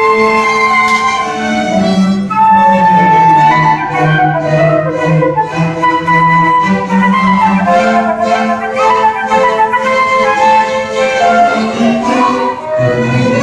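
Student orchestra playing: a flute melody over bowed strings, with a sustained lower line that moves slowly underneath.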